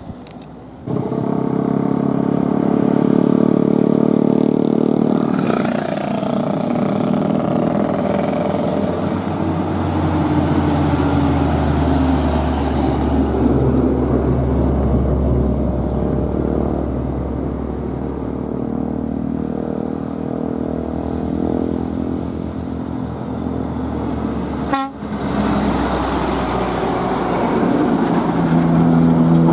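Heavy diesel trucks running on the road, engines droning steadily, with a horn sounding. The sound starts abruptly about a second in and drops out briefly near the end.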